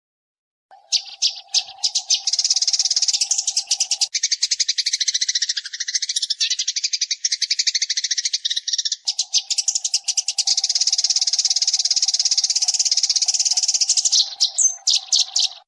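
Eurasian tree sparrow (burung gereja) chattering in a fast, dense run of chirps, starting about a second in and cutting off at the end. A low steady tone runs beneath it, breaking off around four seconds in and returning around nine seconds.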